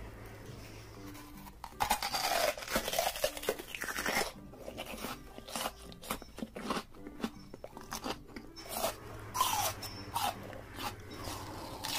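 Close-miked crunching and chewing of a raw red onion being bitten into, an irregular run of crisp crunches that starts about two seconds in.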